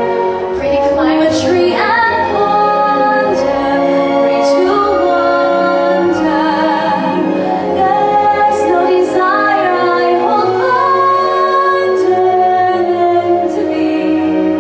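A female vocalist singing a solo song over musical accompaniment, with a held, wavering note about midway.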